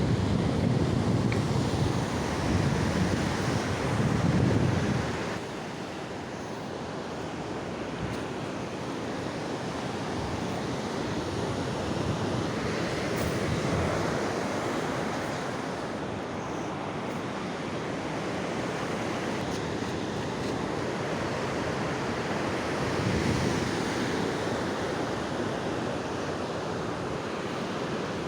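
Sea surf washing onto the shore in slow swells, with wind buffeting the microphone during the first few seconds.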